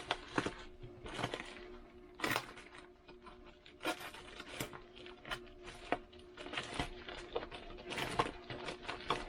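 Plastic packaging bag being handled and pulled open, with irregular crinkles and rustles.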